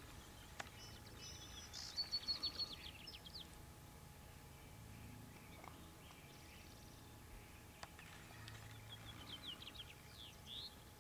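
A songbird singing two quick phrases of high chirps and trills, the first about two seconds in and the second near the end, over faint outdoor background noise.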